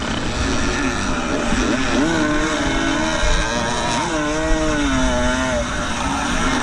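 Two-stroke engine of a 1975 125cc motocross bike revving hard, its pitch climbing sharply twice and dropping back in between as the rider works the throttle and gears, with wind rumble beneath.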